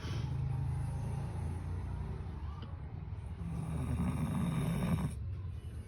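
Labrador snoring: two long, low snores with a short pause between them. The second is louder and cuts off suddenly about five seconds in.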